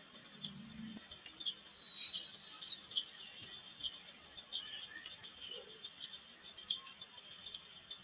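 Bird calls: two long, high whistles, each rising slightly and lasting about a second, over a steady patter of short, high chips.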